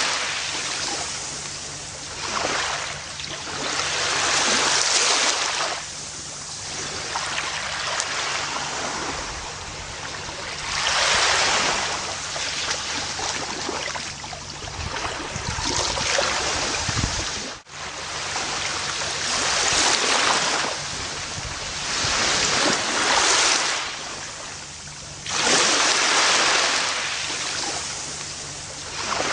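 Gentle ocean waves breaking on a beach, each wash of surf swelling and fading every three to five seconds. There is a brief, sudden dip in level a little past halfway.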